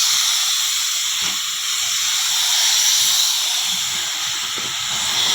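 Paint spray gun spraying: a steady, high hiss of compressed air through the nozzle.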